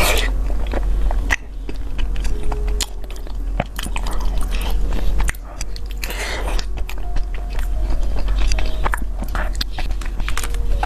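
Close-miked chewing and biting of sticky glutinous rice cake: a dense run of wet, irregular mouth clicks and smacks, with a few louder bites, over a low steady hum.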